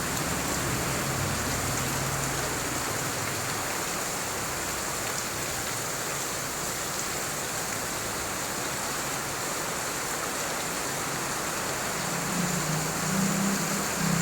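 Heavy rain pouring down, a steady dense hiss of water. A low hum comes in faintly at the start and grows louder near the end.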